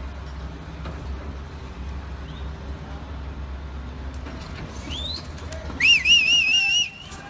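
A low, steady engine rumble, then about six seconds in a loud, high whistle that slides up and then warbles for about a second before stopping.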